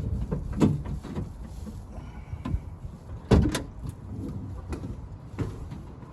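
Irregular knocks and clunks of a large loose part being shifted and bumped around inside a van's cargo area, the loudest a sharp double knock about three seconds in.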